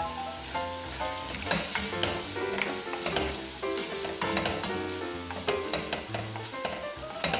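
Meat and tomato paste sizzling in a pot while being stirred, with repeated scraping strokes against the pot, over background music with a melody.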